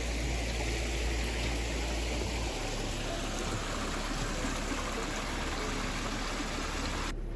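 Running stream water, a steady rushing haze, with a deep low rumble during the first couple of seconds and faint background music underneath.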